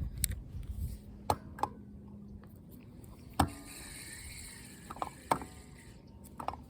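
A handful of sharp, irregularly spaced mechanical clicks and knocks, with a faint low hum that fades out after about two seconds.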